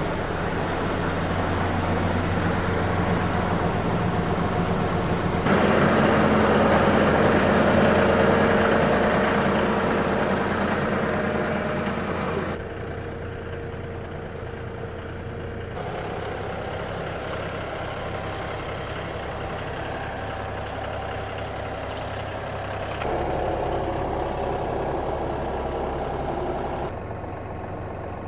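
An engine running steadily with a low hum, its sound changing abruptly several times.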